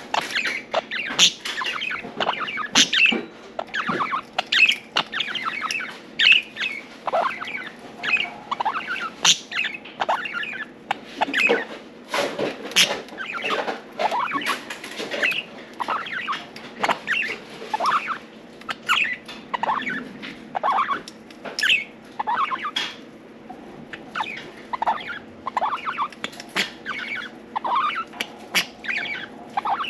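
Several budgerigars chirping and chattering without pause: many short, overlapping calls and quick pitch slides.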